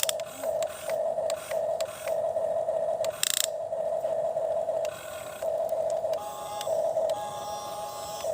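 Small electric motor and plastic gearbox of a toy excavator whirring in short stop-start runs, with a few sharp clicks.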